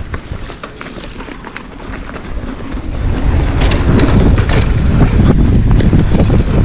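Wind buffeting the microphone: a heavy, gusting rumble with scattered clicks that swells to very loud about three seconds in.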